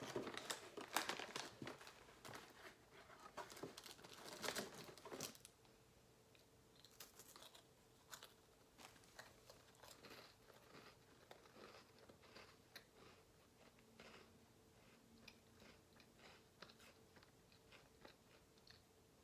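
Close-up crunching of buttery crackers being bitten and chewed, loud and dense for the first five seconds or so, then softer, sparser chewing and mouth clicks.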